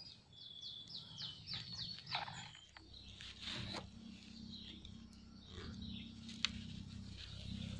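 A bird calling in a quick run of short, falling whistled notes over the first two seconds or so. After that a faint, low, steady hum comes in, with a single sharp click near the end.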